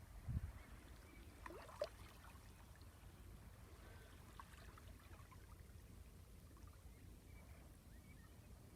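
Faint outdoor beach ambience: a steady low rumble of water and wind, with a soft low thump near the start and a brief cluster of short gliding calls and clicks about two seconds in.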